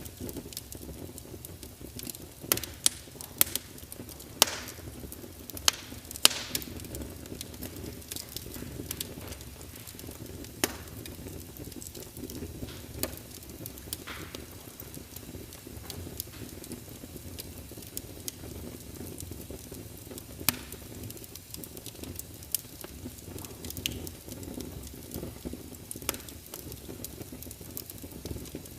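Wood fire burning in a fireplace: a steady low rush of flame with sharp crackles and pops from the burning logs, thickest in the first several seconds and scattered after that.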